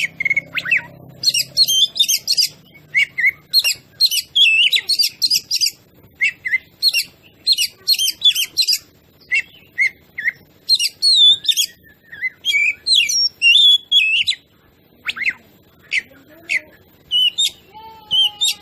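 Oriental magpie-robin (kacer) singing in full voice: a fast, varied run of short whistles, chirps and trills, with a brief pause about two-thirds of the way through.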